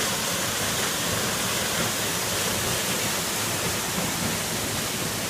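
Small waterfall's water falling with a steady, even rush.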